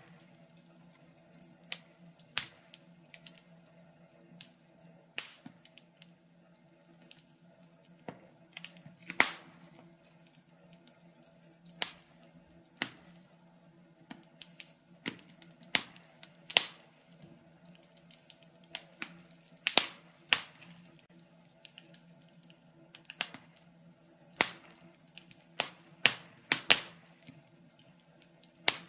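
Wood fire in a fireplace crackling, with irregular sharp pops and snaps, a few at a time, over a faint steady hum.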